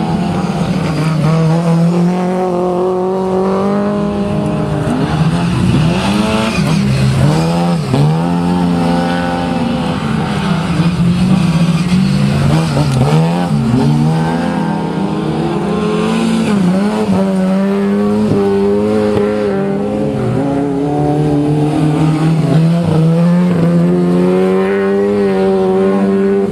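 Classic Lada rally cars' four-cylinder engines run hard on a dirt track. The pitch rises and falls again and again with throttle and gear changes, with a few quick swoops in the middle and steadier held revs near the start and end.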